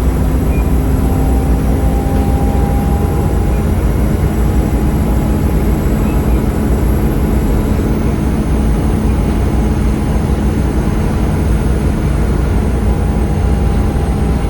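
Volvo B7RLE bus's 7.3 litre Volvo D7C six-cylinder diesel engine running steadily under way, with a deep rumble and a faint high whine above it.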